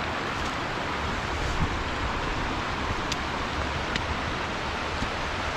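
Steady rushing of a small creek and waterfall, an even hiss of falling water, with a couple of faint ticks a little past the middle.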